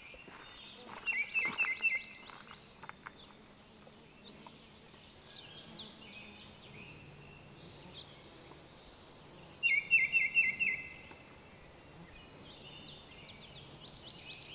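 Baltimore oriole singing: a short, loud phrase of about five quick notes, given twice about eight seconds apart, with fainter bird notes in between.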